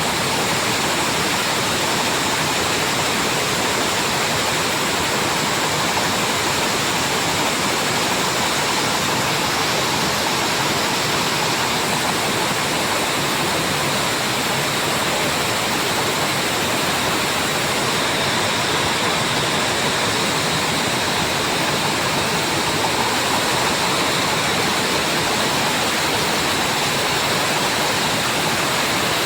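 Washing machine running its spin-dry cycle: a steady, even rushing noise with a faint high whine.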